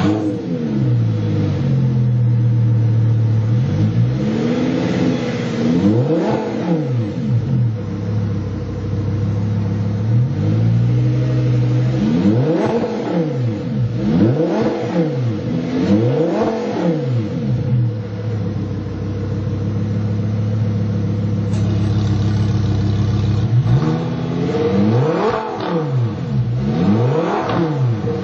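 Audi R8's V10 engine through an AWE Tuning SwitchPath aftermarket exhaust, idling steadily and blipped several times in groups, each rev rising and falling back to idle.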